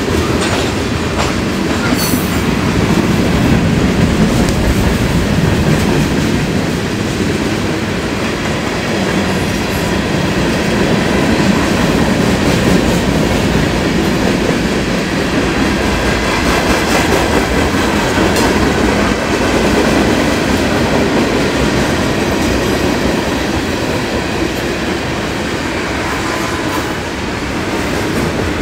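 Freight train cars rolling steadily past, their wheels clicking over the rail joints in an unbroken rumble.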